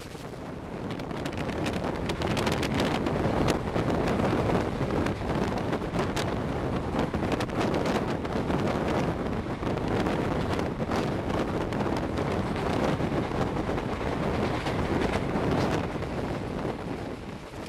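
Passenger train coaches running at speed, heard from an open door: heavy wind rush on the microphone over the running rumble of the wheels on the rails, with frequent sharp clicks. The noise builds in the first couple of seconds and eases near the end.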